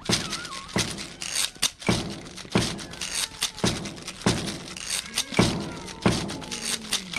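A steady beat of heavy thuds, about one and a half a second, with faint gliding tones between the hits.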